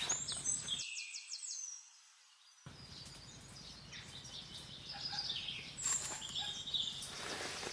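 Wild birds chirping with short high trills over a steady background hiss, with a few sharp knocks.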